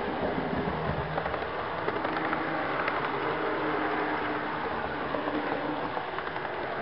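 HO-scale model train running on track, heard from a camera riding on one of its cars: a steady rolling rumble of wheels on rail with motor hum and occasional small clicks.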